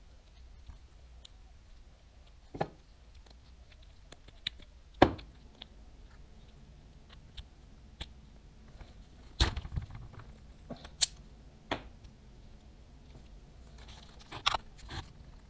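Baitcasting reel parts and small tools being handled during disassembly: scattered sharp clicks and taps, the loudest about five seconds in and another cluster near ten seconds.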